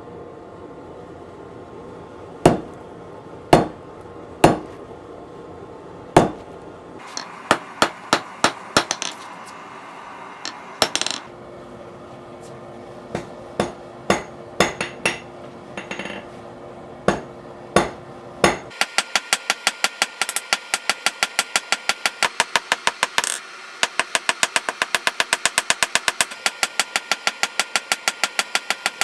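Blacksmith's hammer striking hot 1/2-inch round mild steel on an anvil. The first blows come singly, a second or more apart. About two-thirds in, a fast, even run of lighter blows starts, about four a second.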